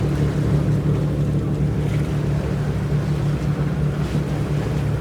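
A sailboat's engine running steadily at a constant speed while the boat motors along, a steady low hum with light water and wind noise over it.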